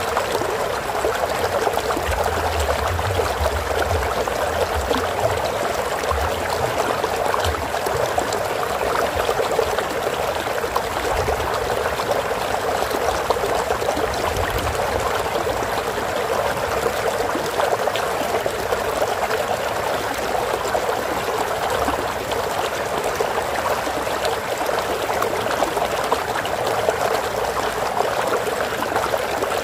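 Flowing stream water running and trickling steadily, an even rushing without pauses.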